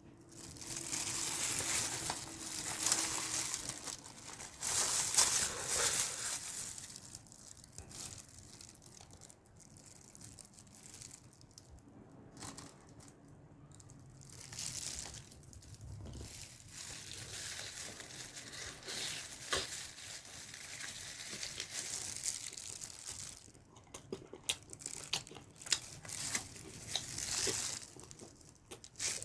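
Wrapping being crinkled and torn open in irregular bursts of rustling, loudest over the first six seconds, with scattered rustles and small ticks later on.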